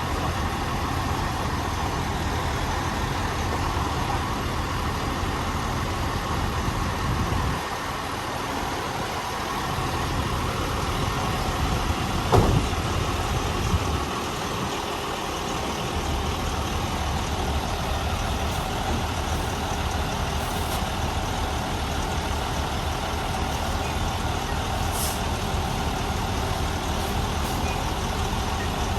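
Diesel truck engine running steadily, with a short falling whine and a sharp peak about twelve seconds in.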